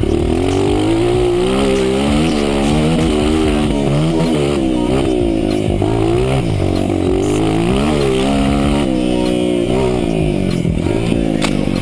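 Honda CRF230 dirt bike's single-cylinder four-stroke engine under hard throttle, its pitch climbing and dropping again and again as the bike accelerates, shifts and backs off.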